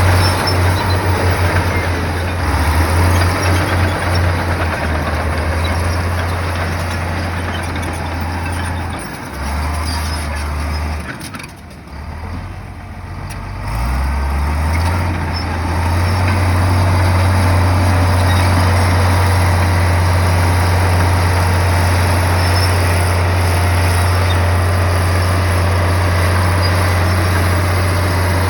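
Komatsu bulldozer's diesel engine working under varying load, its low note shifting in level, dropping away briefly about halfway through, then coming back up and running steadily.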